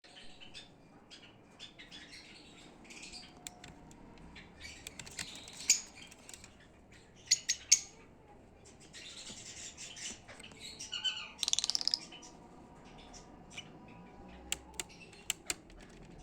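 Pet lovebirds chirping and squawking in short, high calls mixed with sharp clicks. There is a fast chattering run a little over eleven seconds in.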